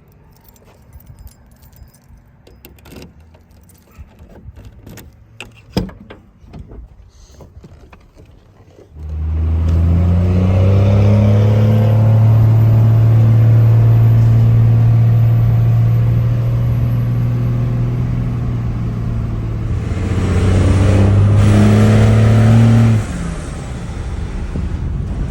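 Keys and small clicks, then about nine seconds in a second-generation Dodge Ram's 12-valve Cummins turbo-diesel straight-six starts and runs at a steady idle. A little over three-quarters of the way through it gets louder for a couple of seconds, then drops back sharply.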